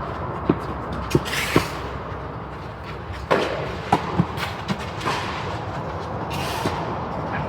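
Tennis ball being struck by rackets and bouncing on the court during a doubles rally: a run of sharp hits, some only about half a second apart, over the first five seconds, then the rally stops.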